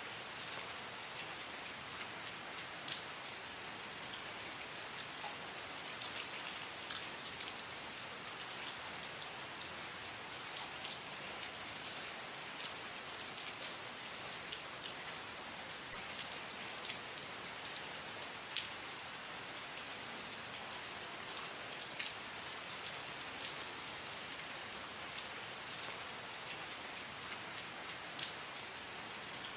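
Steady rain falling, an even hiss with many individual drops ticking sharply on a surface close by.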